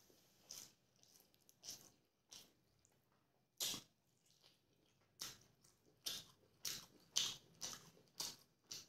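Close-miked chewing of a mouthful of rice and chicken curry eaten by hand: short, wet mouth sounds, sparse at first, then about two chews a second from about five seconds in.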